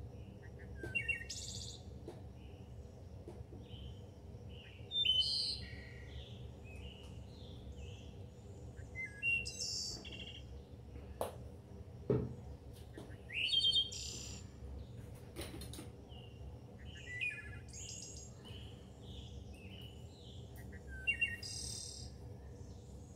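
A songbird singing short, high chirping phrases that repeat every few seconds over a faint steady low hum. Two light knocks come about halfway through.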